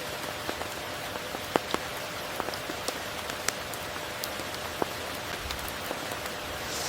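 Steady tropical rain falling, an even hiss with scattered sharp clicks of individual drops landing close by.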